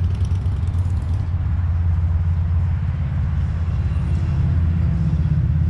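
Steady low rumble of a running vehicle engine, with a faint steady hum added about halfway through.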